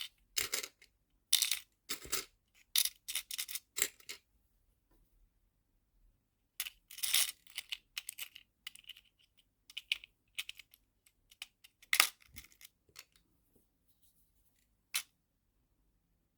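Small nail-art charms clinking and rattling as they are sorted into plastic storage boxes, in clusters of quick sharp clicks with short pauses between.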